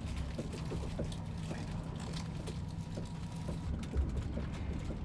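Steady low rumble of a train running, with scattered light clicks and rattles.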